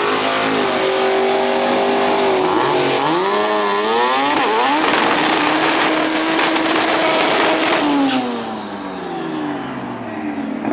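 Turbocharged Mazda RX-7 rotary drag car under full throttle. The engine note climbs and wavers for a few seconds, holds high, then falls away and gets quieter about eight seconds in.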